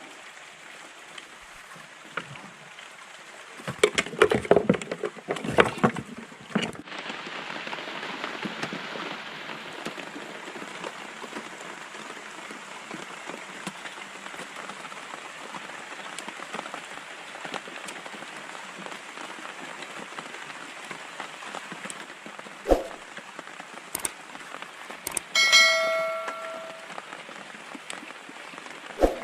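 Steady rain falling, with a burst of knocking and clatter a few seconds in and a few single knocks later. Near the end a short, bell-like ring sounds once.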